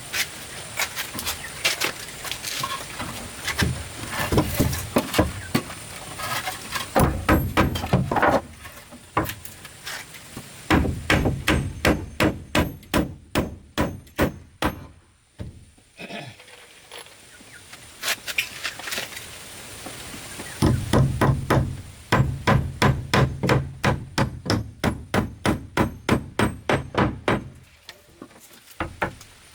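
A hand tool striking wood in runs of quick, sharp blows, several a second, with short pauses between the runs.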